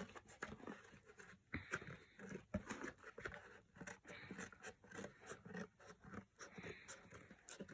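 Small scissors cutting through cardboard: faint, irregular snips and crunches.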